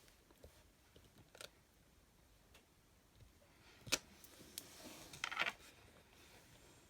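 Rubber stamps and craft tools handled on a desk: a few light taps, a sharp click about four seconds in, and a short rustling scrape a second and a half later.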